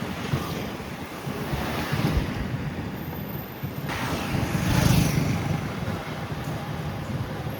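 Sea waves washing on the beach, rising and falling in two broad swells, with wind buffeting the microphone.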